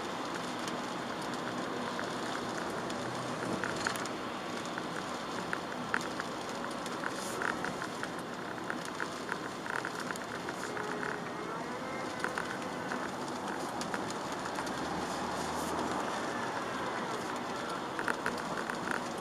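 A Chevrolet Aveo driving in the rain, heard from inside the car: a steady wash of rain and wet-road tyre noise over the engine. Irregular small taps come through the middle of the stretch.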